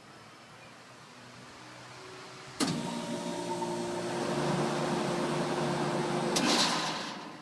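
Old 1977 Payne air conditioner condenser unit switching on with a sharp click, running for about four seconds with a steady electrical hum and a rush of noise, then switching off with another click and dying away.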